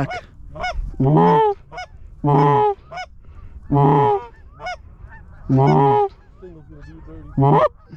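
Loud goose honking: about five drawn-out honks, each about half a second, with quick short clucks in between.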